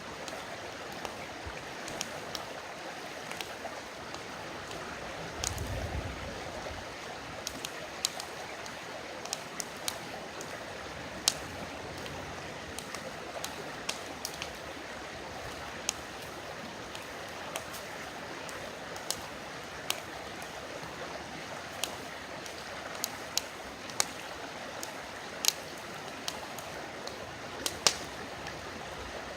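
Wood campfire crackling, with irregular sharp pops, over the steady rush of a river. A brief low rumble comes about six seconds in.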